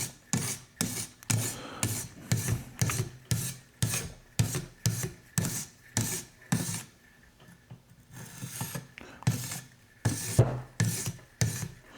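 A sharpening stone on a TSProf Kadet guided knife-sharpening system being stroked along a knife edge. Short, rasping scrapes come about twice a second, stop for a moment about seven seconds in, then go on. This is the honing that raises a burr along the edge.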